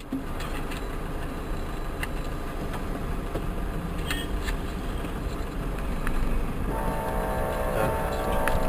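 Steady vehicle and road rumble, with a few faint clicks, then about seven seconds in a long horn blast begins and holds on one chord.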